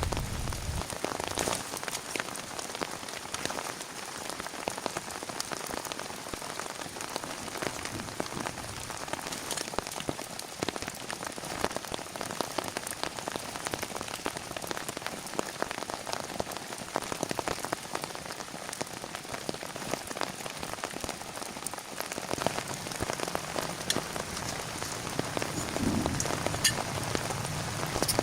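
Steady rain falling, with many sharp individual drop hits.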